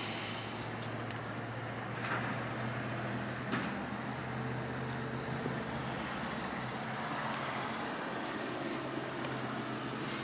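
Steady background noise with a low hum, and a few faint knocks about half a second, two and three and a half seconds in.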